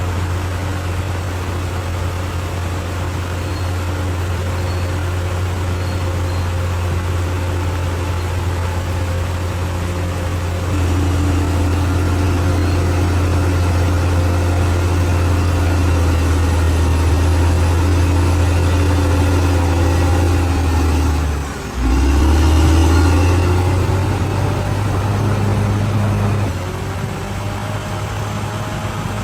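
Bulldozer's diesel engine running with a steady low drone. It grows louder about a third of the way in, cuts out for an instant about three-quarters through, then comes back and eases off near the end.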